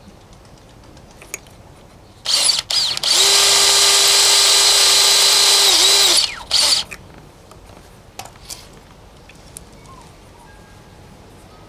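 Power drill running in two short bursts, then a steady run of about three seconds whose pitch dips just before it stops, then one more short burst. A few light clicks come before and after.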